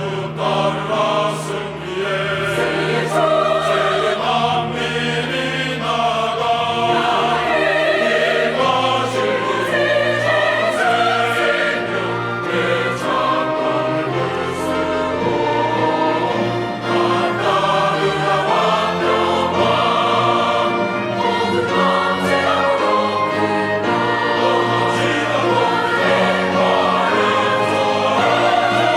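Church choir singing an anthem in parts, accompanied by a small orchestra of strings, winds, piano and organ.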